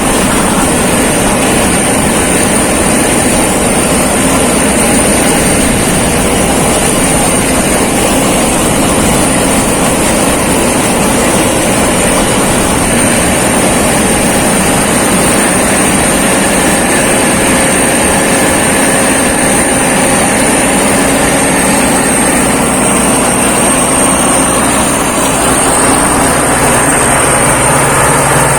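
Thai-built rice combine harvester running steadily under load, its engine and threshing machinery making a loud, even din with a thin, steady high-pitched whine over it.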